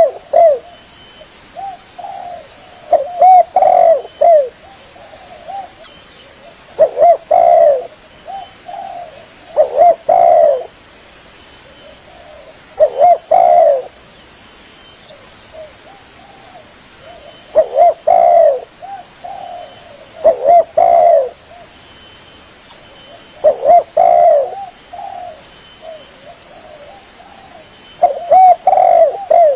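Spotted dove cooing: short phrases of a few low, wavering coos, repeated every three to four seconds.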